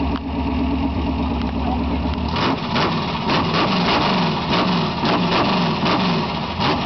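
V8 engine running with a steady low idle. A little over two seconds in it changes to a quick run of short revs, each falling away, about two a second, with sharp cracks among them.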